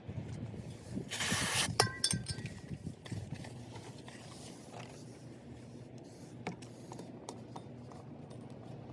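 Hand work on scooter parts: a short hiss about a second in, then a couple of sharp metallic clinks with a brief ring, followed by scattered light clicks.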